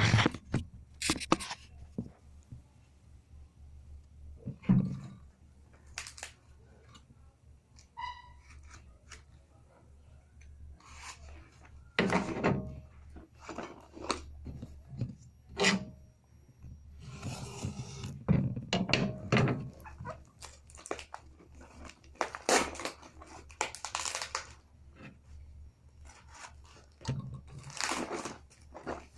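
Packaging of a hole saw set being handled and opened: scattered knocks and clicks with bouts of rustling, scraping and tearing. There is one brief ringing note about eight seconds in.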